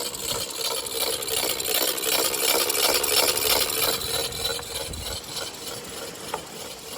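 Fishing reel drag screaming as a hooked shark pulls line off the spool: a fast, continuous clicking buzz, loudest in the first half and easing off after about four seconds.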